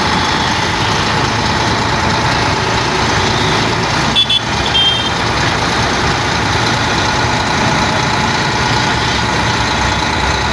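Sinotruk HOWO dump truck's diesel engine running steadily, with a few short high beeps about four seconds in.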